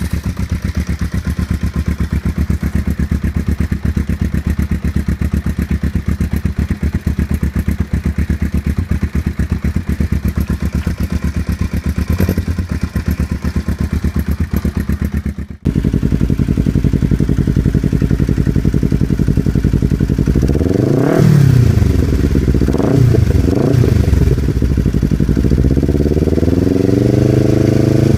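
Kawasaki ER-5 parallel-twin engine running through an Ixil aftermarket exhaust, idling steadily. After a sudden cut about fifteen seconds in, it idles louder, is blipped twice, then revved up and held near the end.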